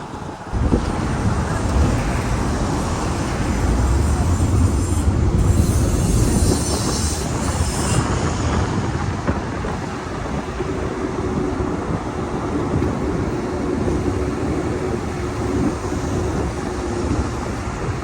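A car driving along a road: a steady low rumble of tyres and engine that cuts in abruptly about half a second in.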